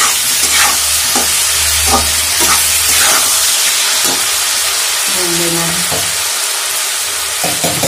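Diced potatoes and poi-saag stalks frying in oil with freshly added ground masala paste, sizzling steadily as a steel spatula stirs and scrapes the kadai. Several short scrapes and knocks of the spatula against the pan.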